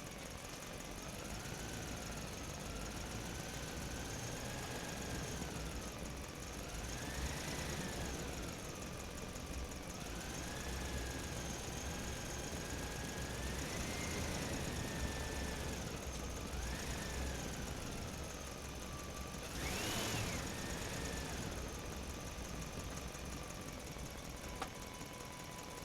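A motor running, its whine rising and falling in pitch every few seconds like repeated revving, with the highest and loudest surge about twenty seconds in.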